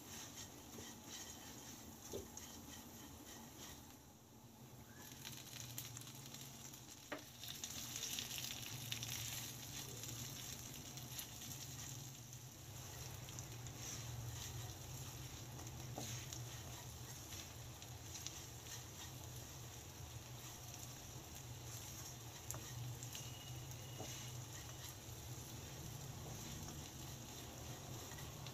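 Gentle frying sizzle as a spatula stirs sliced onion, curry leaves, dried tuna chips and diced potato in a nonstick pan, with a few light clicks along the way.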